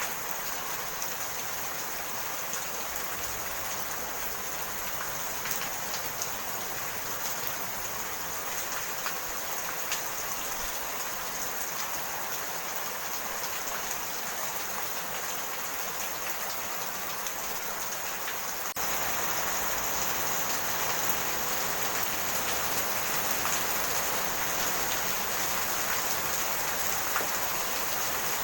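Steady rain falling, with scattered drops ticking on a surface. About two-thirds of the way through it abruptly becomes louder and stays so.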